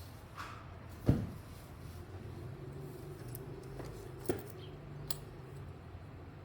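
Small handling noises of hand-crafting work at a table: a knock about a second in, then a couple of light clicks, over a low steady hum.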